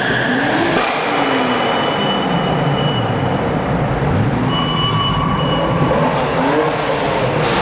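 Sports car engines revving and accelerating inside a road tunnel, their pitch rising and falling several times over a steady high whine, the tunnel's echo filling out the sound.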